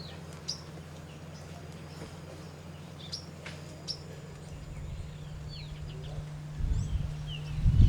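Small birds chirping: scattered short, high, sharply falling notes. A low rumble swells near the end and is louder than the birds.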